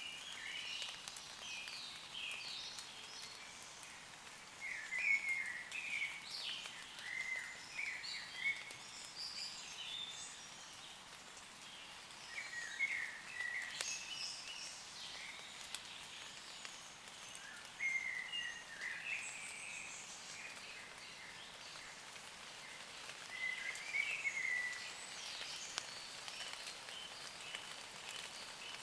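Several woodland birds chirping and trilling in quick, short phrases, with light rain pattering on leaves beneath.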